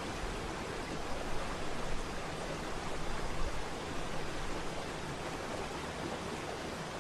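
Waterfall: falling water rushing steadily with a dense, even hiss.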